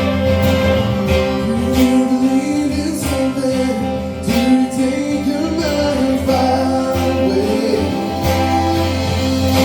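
Live band performing a song: a voice singing over guitar and other instruments, with a steady beat.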